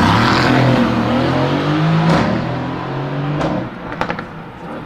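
Mercedes car's very loud exhaust at high revs, the engine note holding and then falling away and fading about three and a half seconds in. A few sharp cracks follow near the end.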